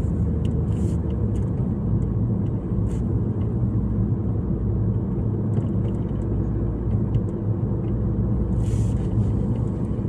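A car driving: steady low rumble of engine and road noise as heard inside the cabin, with a few faint clicks.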